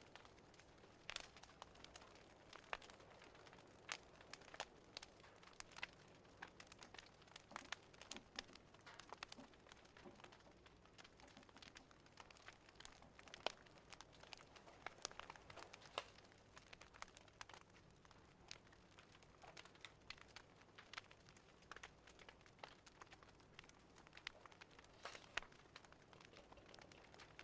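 Fireplace fire crackling: faint, irregular pops and snaps over a low steady hiss.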